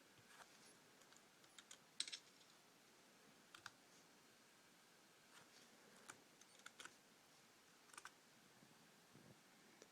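Near silence with a faint hiss and a dozen or so short, sharp clicks at irregular intervals, the loudest about two seconds in, like keys being pressed on a computer keyboard.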